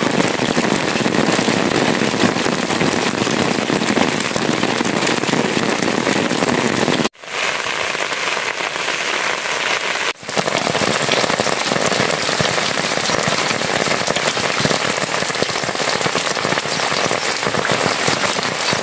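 Steady rain falling on puddles and wet ground, a dense, even hiss of pattering drops. It breaks off abruptly for a moment twice, about seven and ten seconds in, then carries on.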